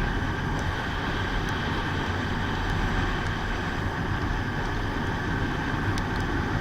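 Steady wind rush over the microphone, with a motorcycle engine running underneath while riding at road speed.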